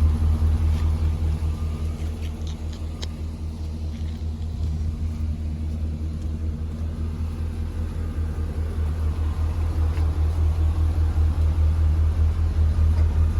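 Chevrolet 3500HD dump truck's engine idling with a steady low pulsing hum, a little quieter through the middle and louder again near the end.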